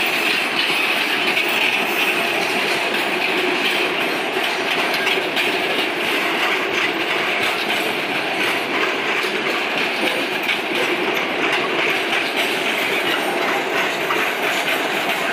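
Loaded freight wagons rolling past close by: a steady, loud clatter of steel wheels on the rails with a rapid clickety-clack over the rail joints.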